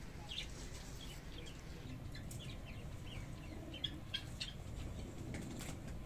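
Small birds chirping: many short, high chirps, one after another. A couple of faint clicks come about four seconds in.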